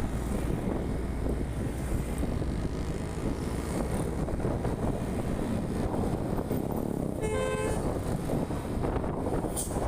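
A vehicle travelling along a road, a steady low rumble of engine and road noise; a horn toots once, briefly, about seven seconds in.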